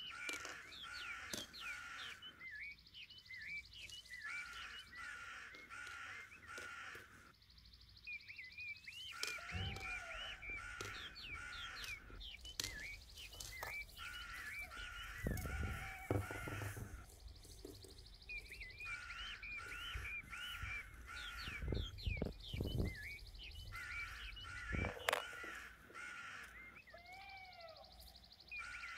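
Birds calling and chirping in repeated bursts of about two seconds with short pauses between, and a few low thumps midway.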